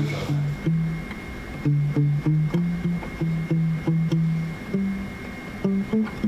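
Guitar playing a single-note melodic line of low plucked notes, about two or three a second, with a faint steady high-pitched tone underneath.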